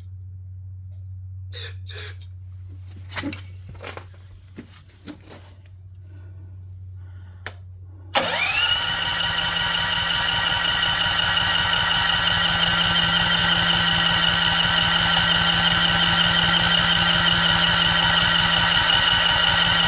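A few knocks and clatter, then about eight seconds in the Champion generator's small single-cylinder engine fires, rises briefly and settles into a loud, steady run. It is running on a freshly fitted spark plug after a no-start.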